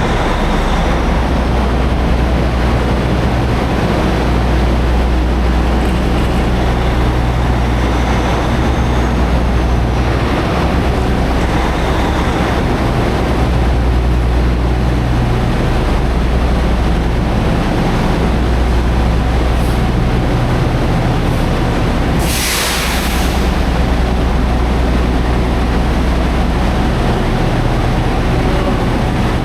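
Semi truck's diesel engine running with a steady low rumble and road or cab noise. A short sharp air hiss cuts in about two-thirds of the way through.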